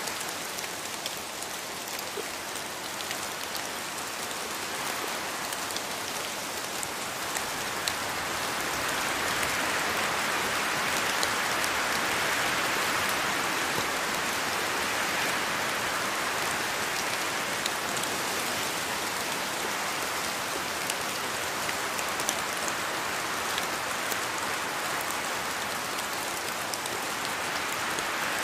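Steady rain falling in a rainforest, with scattered sharp drip clicks. It swells a little from about eight seconds in and eases slightly later on.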